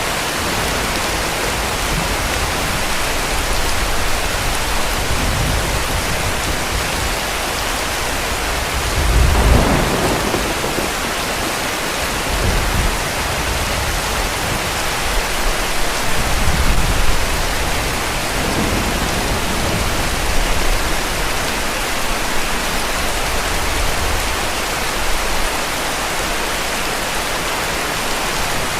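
Heavy rain falling steadily, with distant thunder rumbling several times; the loudest rumble rolls in about nine seconds in.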